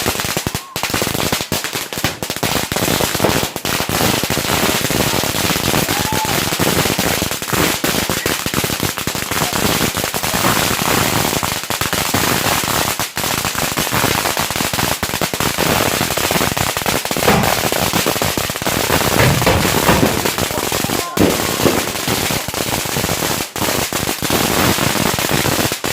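A long string of firecrackers going off in rapid, unbroken succession, a dense crackle of bangs with a few louder reports standing out.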